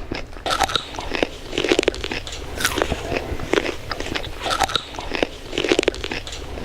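Someone biting into and chewing crunchy food, a run of irregular crunches.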